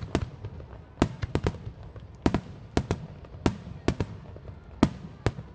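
Aerial fireworks shells bursting in an irregular string of about a dozen sharp bangs, several coming in quick pairs, each with a short echoing tail.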